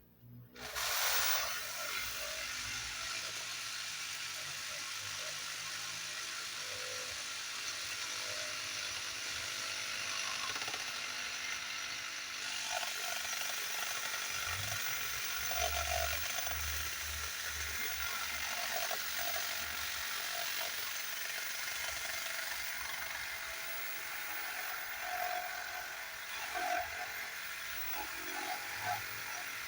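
Reciprocating saw (Sawzall) cutting into a thick timber beam. It starts about a second in and runs steadily.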